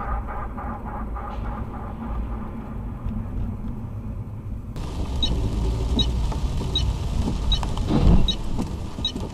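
A car being driven, with steady low road and engine rumble. Partway through the sound changes, and then a regular tick comes a little more than once a second. A brief louder swell of noise comes near the end.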